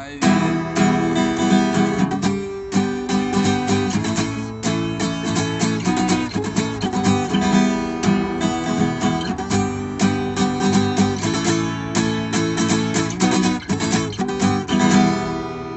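Acoustic guitar being strummed in a steady rhythm, playing a run of chords without singing.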